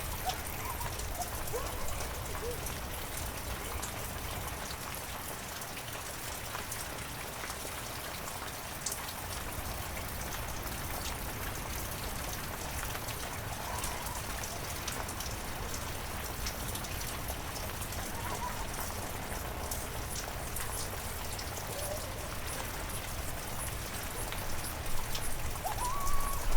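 Steady heavy rain with individual drops ticking. A few short, faint, pitched calls from an animal come through the rain, the loudest near the end.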